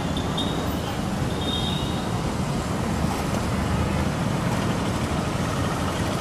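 Steady low rumble of vehicle or traffic noise, with a few faint short high tones in the first two seconds.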